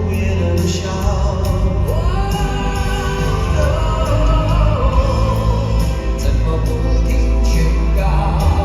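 Live band music with singing over it: heavy bass and a steady drum beat under a sung melody line.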